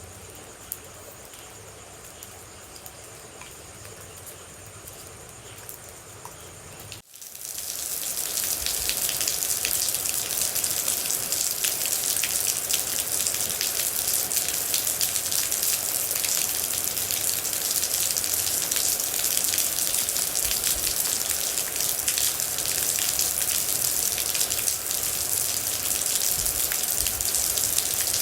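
Light patter of water drops for about seven seconds, then, after a momentary break, steady heavy rain with a dense patter of drops, clearly louder.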